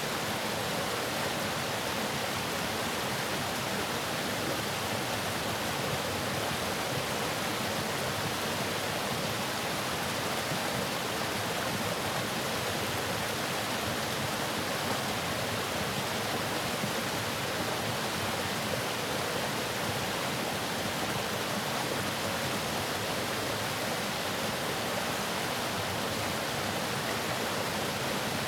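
Waterfall: water falling and splashing in a steady, unbroken rush with no changes.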